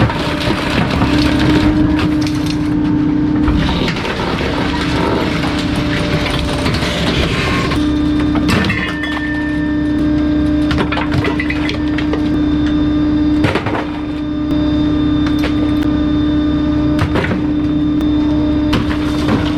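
Bulky-waste truck's compactor crushing a load: a steady hydraulic hum runs on, dipping briefly a few times, while items inside crack and splinter with scattered sharp snaps.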